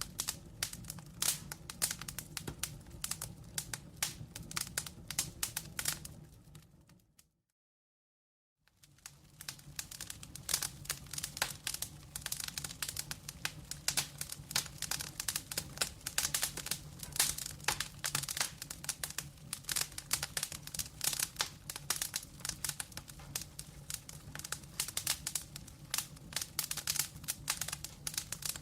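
Wood fire crackling, with a dense run of sharp pops and snaps over a low steady rumble of flame. About six seconds in, the crackling fades out to a second of complete silence and then fades back in, the join of a looped recording.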